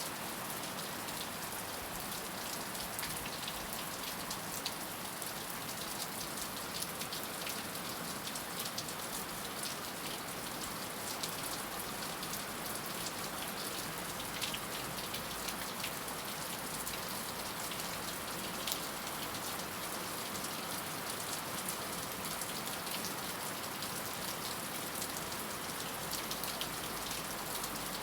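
Heavy rain falling steadily, a dense even hiss with many small drop ticks and no thunder.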